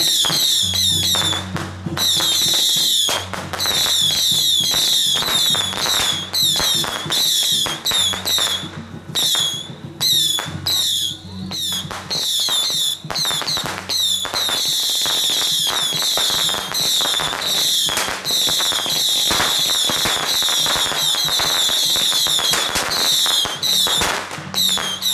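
Firecrackers going off in long rapid crackling runs, with brief gaps, over a steady low music or drone.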